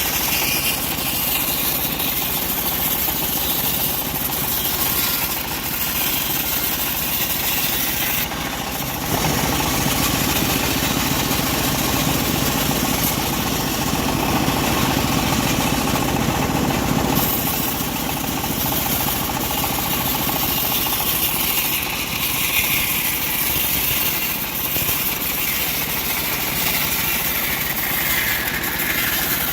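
Engine-driven homemade bandsaw sawmill running steadily while its blade saws through a log. It grows louder and fuller for several seconds in the middle, and in the second half a high whine slowly falls in pitch.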